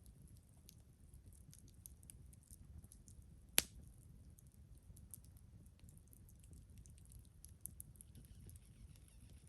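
Wood fire crackling: a scatter of small faint pops, with one sharp loud crack about three and a half seconds in.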